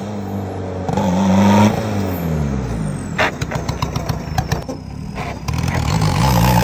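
Car engine revving, its pitch holding and gliding. A run of sharp cracks and pops comes in the middle, and then the revs climb again near the end.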